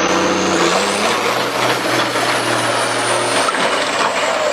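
Road vehicle noise: a vehicle engine running under a dense, steady rush of road and traffic noise. The engine tone fades away about three and a half seconds in.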